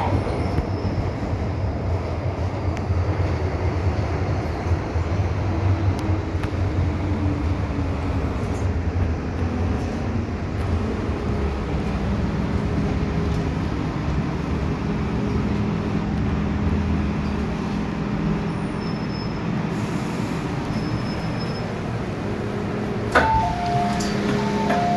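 MTR M-Train electric multiple unit running with a steady rumble, its motor tone falling in pitch as it slows and then holding steady. A sharp click and short two-pitch beeps come near the end.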